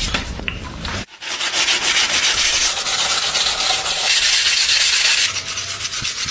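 Abrasive sanding of a rusty knife blade: a dense, scratchy hiss of rapid strokes that starts abruptly about a second in and eases off near the end.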